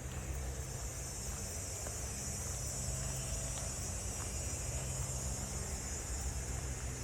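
Outdoor ambience: insects, crickets by the sound of the tags, keep up a steady high chirring over a constant low rumble. A few faint clicks are heard.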